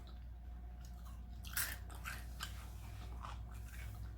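A person chewing a mouthful of taco close to the microphone, with scattered small crunches, the loudest about one and a half seconds in.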